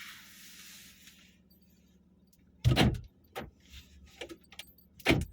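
A car door shutting with a heavy thud about halfway through, with smaller knocks and clicks around it and a short hiss at the start.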